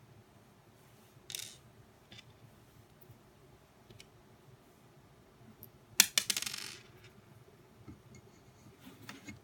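Small hard parts clattering onto a surface about six seconds in: a quick run of sharp clicks settling into a brief rattle. Lighter clicks and scrapes of parts being handled come before and after it.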